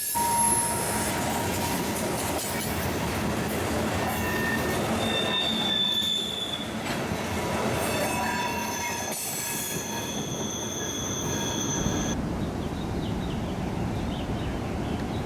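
Train wheels squealing against the rails as railcars roll past, several high squeal tones over a steady rumble. The squealing stops about twelve seconds in, leaving only the rolling rumble.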